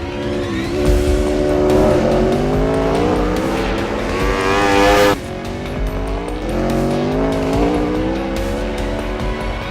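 Aprilia RSV4's V4 engine accelerating hard, its pitch climbing steadily for several seconds, then dropping abruptly about five seconds in and climbing again. Music plays underneath.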